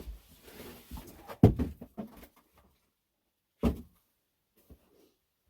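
A run of knocks and thumps, the loudest about a second and a half in. A single thump follows a couple of seconds later.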